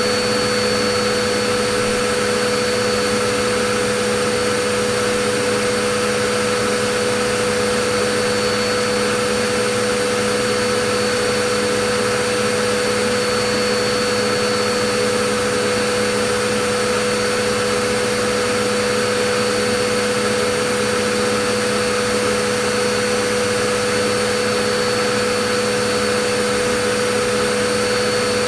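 Vacuum cleaner running steadily: an even motor hum and airflow hiss with a constant whine and no changes.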